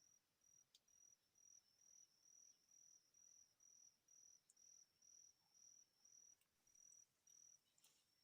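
Cricket chirping faintly: short high chirps of one pitch, repeated evenly about two to three times a second.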